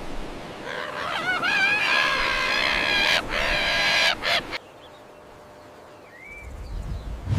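An animal calling: one long, wavering, pitched call lasting about four seconds, broken by a couple of brief gaps near its end. A single short rising chirp follows near the end.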